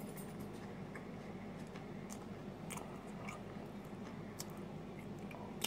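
A person chewing pizza crust with the mouth closed: soft, irregular crunchy clicks over a low steady hum.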